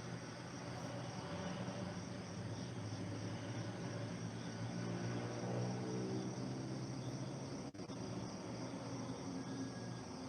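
Steady outdoor chorus of crickets chirping, with a low steady hum underneath and a brief dropout in the sound about three-quarters of the way through.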